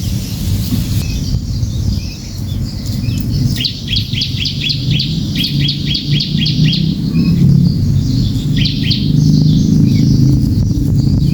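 Small bird chirping in a quick series of short, sharp notes, about four a second, then a brief burst of a few more notes, over a steady low rumble.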